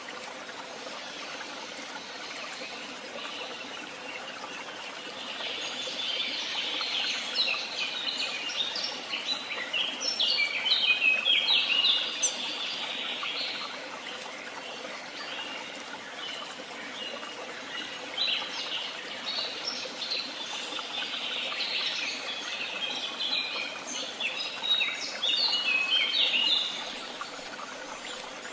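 A songbird singing two long bursts of rapid, jumbled notes, the first about five seconds in and the second from about eighteen seconds, over a steady background hiss.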